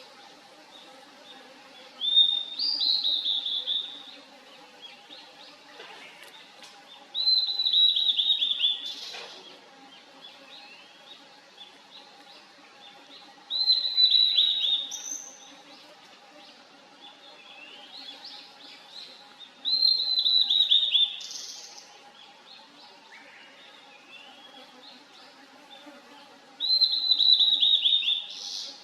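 Blue-and-white flycatcher (Cyanoptila cyanomelana) singing: five high, whistled song phrases of about two seconds each, each a quick run of notes that slides downward, repeated roughly every six seconds.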